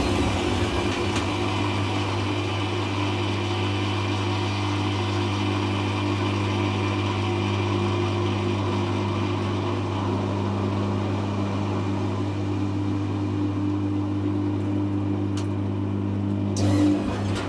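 Hoover Classica 1100 AC164 washing machine humming steadily during its intermediate spin stage, most likely the drain pump running with the drum slowed. Near the end there is a brief louder rush of noise.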